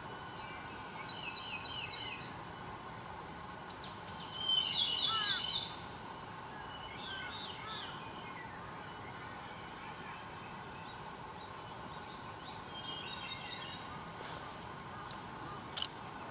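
Wild songbirds singing: several short phrases of quick repeated notes, the loudest about five seconds in, over a faint steady hum.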